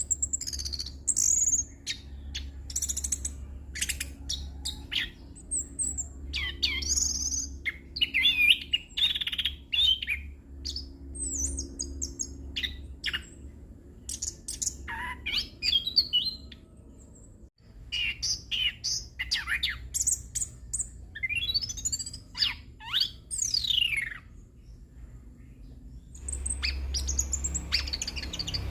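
Orange-headed thrush (anis kembang) singing a long, varied rolling song of rapid whistled phrases and sweeping notes, packed with fill-in phrases borrowed from other birds. A low steady hum runs underneath.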